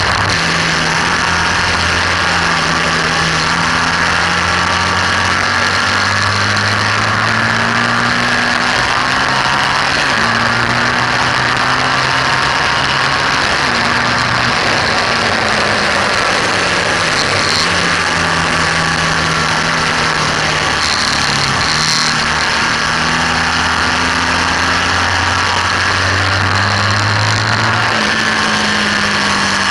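BMW R1200S's air/oil-cooled boxer twin engine pulling hard at speed, its revs rising and dropping again and again through gear changes and braking. A heavy rush of wind noise runs over the camera microphone throughout.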